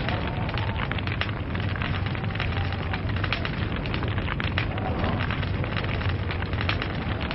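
Wood log fire crackling, with many irregular small pops and snaps over a steady low rumble of burning.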